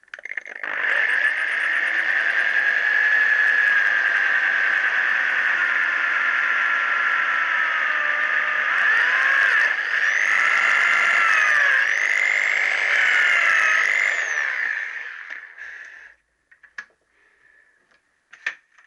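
Electric drill running under load as a 5 mm bit is drilled into a connecting rod's little end to enlarge its oil hole. The whine sags in pitch as the bit bites, wavering squealing tones come in around the middle, and it winds down about 15 seconds in, followed by a few small clicks.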